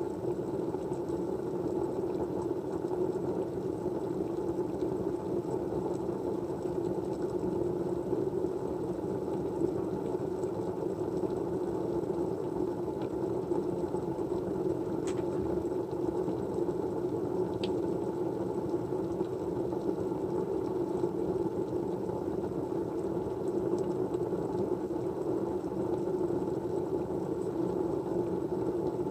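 Steady low white noise, an even hiss weighted toward the low-middle range, with two faint ticks about two and a half seconds apart a little past the middle.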